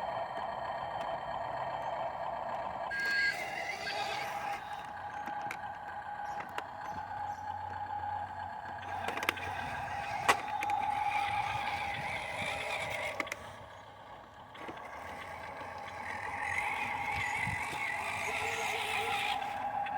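Dump truck running with a steady mechanical whine, which dips briefly about two-thirds of the way through. A few sharp clicks.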